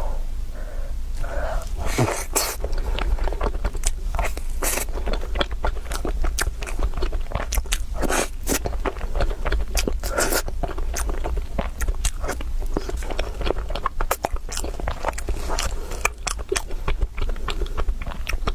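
Close-miked eating: a person biting and chewing food, a dense, irregular run of crunchy clicks with a few louder bites.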